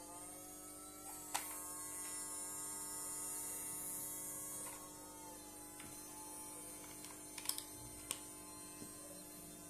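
Small electric motor of a toy washing machine running with a steady hum, its pitch rising slightly in the first second. A few sharp clicks come about a second and a half in and twice near the end.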